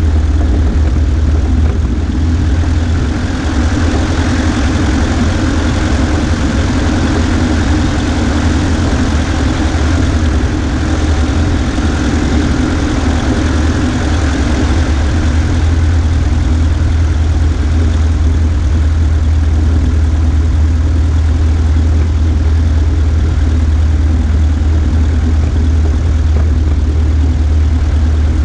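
Cessna 140A's piston engine and propeller running with a steady, loud drone.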